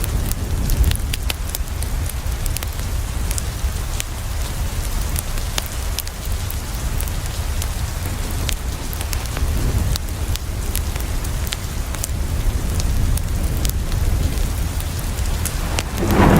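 Steady heavy rain with a deep low rumble and scattered sharp ticks and crackles throughout. Just before the end, a roll of thunder swells in.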